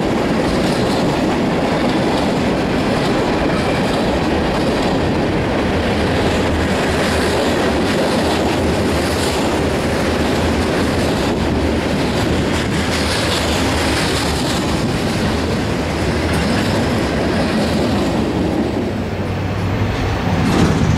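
Freight cars of a CSX local train, a tank car and loaded open-top hoppers, rolling past with a steady rumble and steel wheels clicking over the rail joints. Near the end the rolling gives way to a road vehicle's engine.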